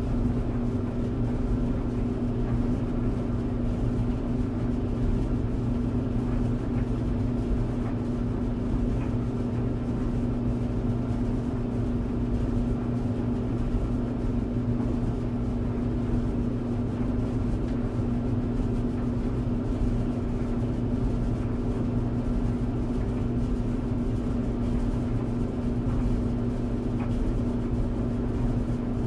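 Tumble clothes dryer running: a steady low hum with an even whooshing noise from the turning drum, unchanging throughout.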